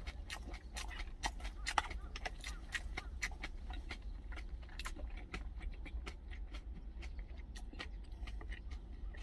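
Close-up chewing: many small wet clicks of food being chewed with the mouth closed, over a steady low rumble.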